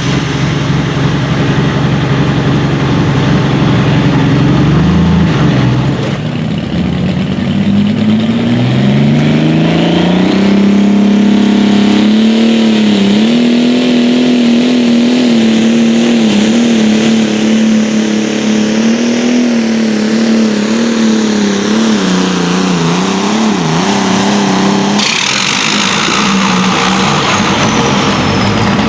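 A competition pulling vehicle's engine revs up over several seconds and is then held at high revs, its pitch wavering under load as it drags the sled. About 25 seconds in, the sound changes abruptly.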